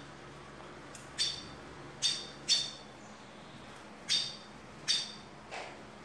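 A small bird calling with short, sharp, high chirps, about six at irregular intervals.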